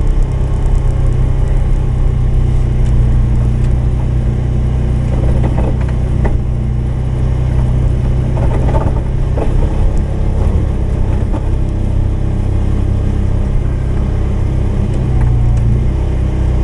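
Polaris 570's single-cylinder engine running steadily, with a few brief rattles about halfway through.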